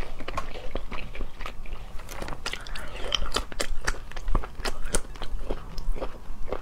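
Close-miked mouth sounds of a person biting and chewing a peeled egg dipped in spice powder: wet smacks and small clicks, several a second.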